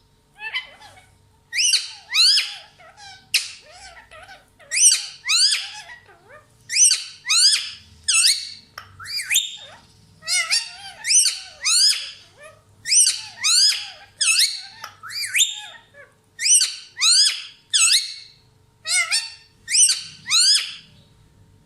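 A parrot squawking in a long series of short, loud calls, about two dozen of them, many in quick pairs.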